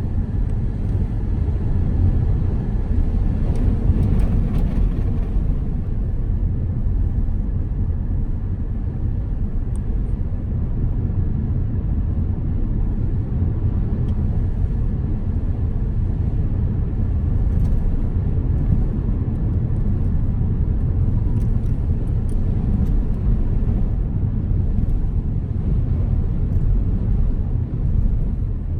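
Car driving along the road: a steady low rumble of tyres and engine, with a brief louder swell about four seconds in.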